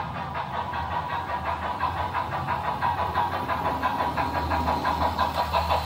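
Steam chuffing from the sound decoder of a Märklin H0 model of the DB class 10 steam locomotive, a fast, even beat of several chuffs a second as the model runs, with a low rumble of the model rolling on the track underneath. The chuffs grow louder near the end.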